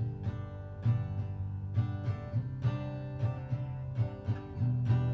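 Acoustic guitar strummed in a steady rhythm, playing a country-style song intro without singing.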